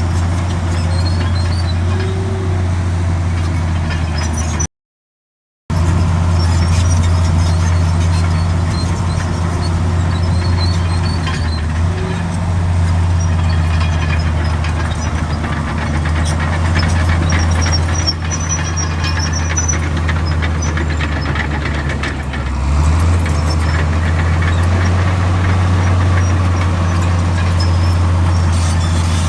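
Heavy diesel earthmoving machinery running steadily under load, a deep engine drone that dips and picks up again a little past the twenty-second mark. The sound cuts out completely for about a second about five seconds in.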